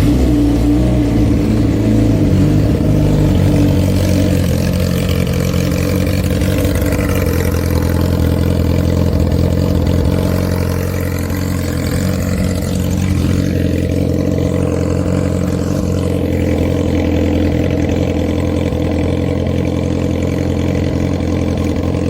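Kawasaki ZX-25R's 250 cc inline-four engine idling through an Arrow racing exhaust, just after starting: a little higher and louder for the first few seconds, then settling into a steady idle.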